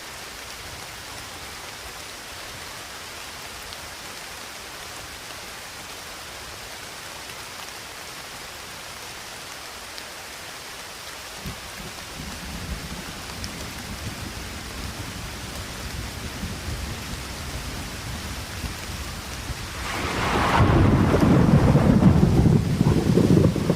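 Steady rain with a low rumble of thunder that builds from about halfway through and swells into a much louder, rolling peal in the last few seconds.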